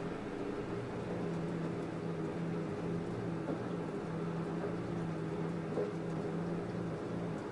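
LG F10A8HDS5 front-loading washing machine running its cotton wash cycle: a steady motor hum with a constant low tone.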